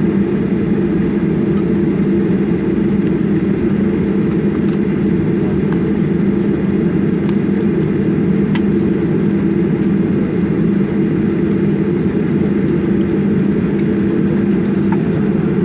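Steady cabin noise of a Boeing 737-800 taxiing after landing: a loud, even hum of the engines at idle and the air conditioning, with a few faint clicks.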